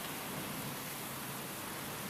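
Steady rain with wind, a dense, even hiss without distinct drops.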